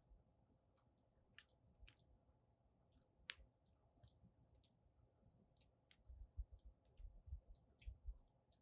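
Wood fire burning in a fire stand, crackling faintly with irregular sharp pops. A low rumble comes and goes in the second half.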